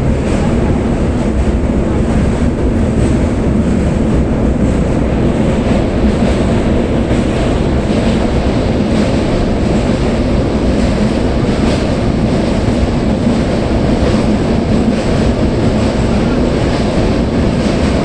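Moving passenger train's steady rumble and wheel noise, heard from on board as it runs over a bridge.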